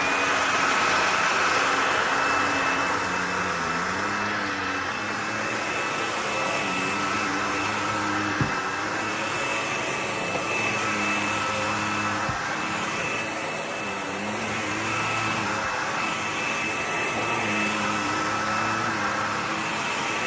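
Bissell PowerClean FurGuard cordless stick vacuum running with a steady high whine over a wavering lower hum. Two sharp clicks come about 8 and 12 seconds in.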